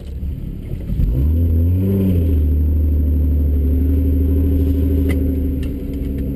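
BMW M3's engine heard from inside the cabin, revving up and back once about a second in, then pulling steadily as the car moves off.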